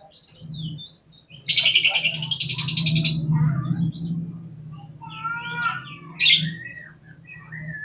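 Oriental magpie-robin (kacer) calling: a short high chirp, then a loud harsh rasping call lasting over a second, followed by varied whistled notes and a sharp high note. A steady low hum runs underneath.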